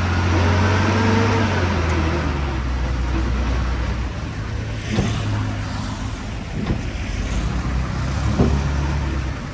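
Diesel engine of earthmoving machinery running steadily, its pitch rising and falling briefly near the start, with a few sharp knocks in the second half.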